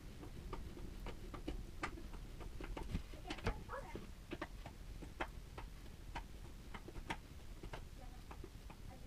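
Irregular light clicks and taps, a few a second, with a louder knock about three and a half seconds in.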